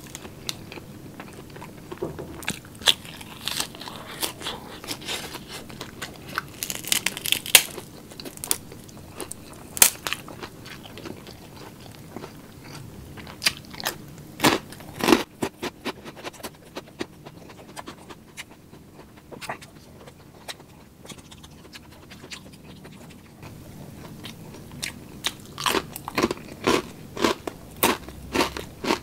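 A person chewing and crunching crisp lettuce and chicharon (fried pork crackling), close to the microphone. Sharp crunches come in clusters, thin out for a few seconds in the middle, then come thick and fast near the end.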